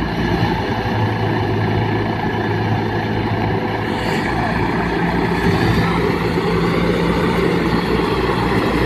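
UTB 650 tractor's diesel engine running steadily, with a slight change in its sound about four seconds in.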